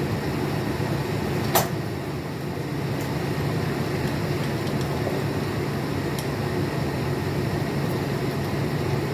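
Steady mechanical hum with a low drone, like a fan or air-handling unit, and one sharp click about a second and a half in.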